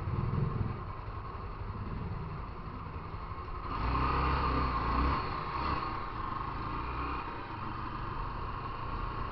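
Motorcycle running under way, with road noise; it gets louder about four seconds in for a second or two, then settles back.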